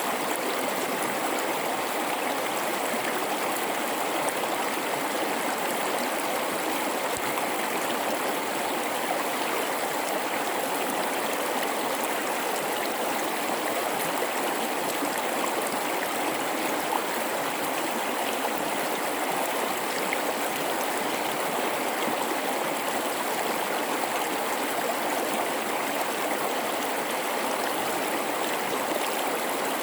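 River flowing steadily through a gorge: an even, unbroken rush of running water.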